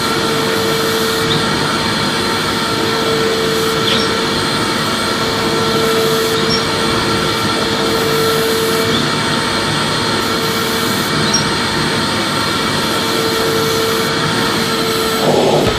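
Vacuum cleaner running steadily: a constant rush of air with a motor whine that swells and fades slightly, and a brief bump near the end.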